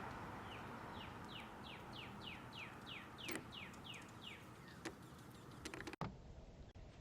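A songbird singing a run of about eleven clear, down-slurred whistled notes, about three a second, followed by a few faint clicks.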